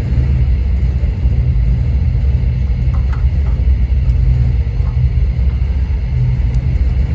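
Propane roofing torch burning with a steady low rumble as it heats the roofing to patch it.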